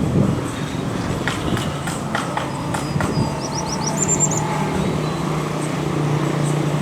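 Passenger train rolling into a station: wheels knocking over rail joints, then a steady low engine hum. A quick run of high chirps sounds briefly in the middle.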